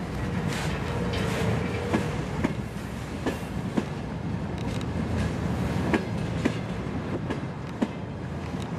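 Freight wagons rolling past close by: a steady rumble with sharp, irregular clicks of wheels over rail joints, and a short steady whine about a second in.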